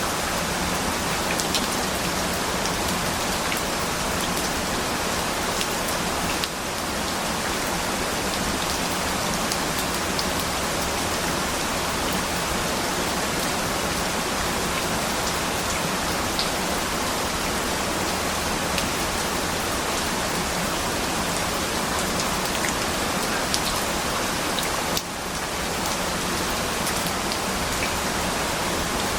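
Steady rain falling, an even hiss with scattered faint drop taps. The level dips briefly twice, about six and a half and twenty-five seconds in.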